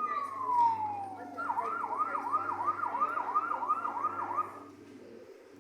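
Electronic fire-engine siren sound effect from a Falgas coin-operated fire truck kiddie ride: a wail falling in pitch, then a fast yelp sweeping up and down about three times a second for around three seconds before it stops.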